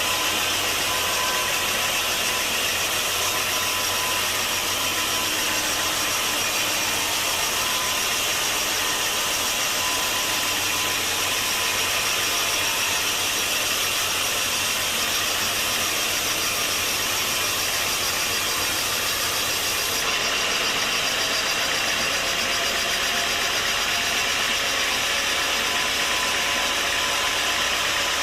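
Sawmill machinery running steadily, a loud dense mechanical noise with a few faint steady tones. The sound shifts abruptly about two-thirds of the way through.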